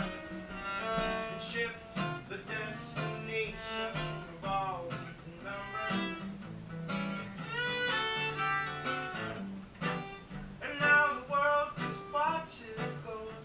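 Instrumental passage from an acoustic duo: a guitar plays chords under a bowed string melody that slides and bends between notes.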